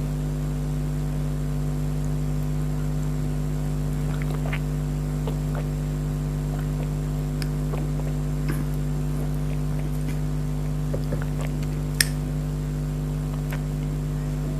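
A steady low hum made of several fixed tones, with a few faint clicks and taps over it and one sharper click about twelve seconds in.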